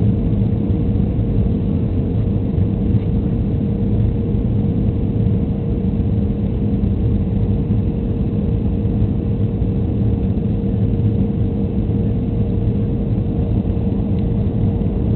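Steady cabin noise inside a Boeing 737-300 in flight: the low rumble of its CFM56-3 turbofan engines and rushing air, with a steady mid-pitched hum running through it.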